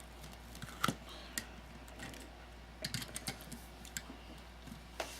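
Plastic Lego bricks clicking as they are handled and pressed together: scattered light clicks, with a quick cluster about three seconds in.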